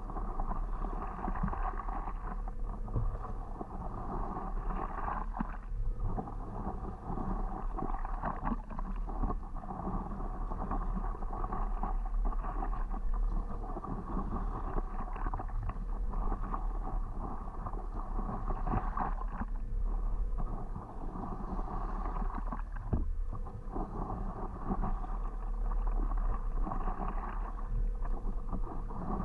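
Water lapping and paddle strokes around a stand-up paddleboard, rising and falling unevenly, over a steady low rumble.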